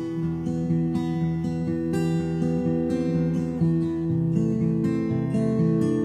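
Background music: acoustic guitar playing a steady rhythm of strummed and picked notes.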